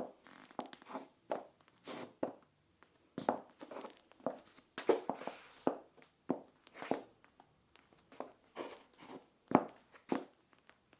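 Stiletto high heels with plastic heel tips clicking on a tiled floor in irregular steps, with a longer scraping scuff about five seconds in and another near seven seconds.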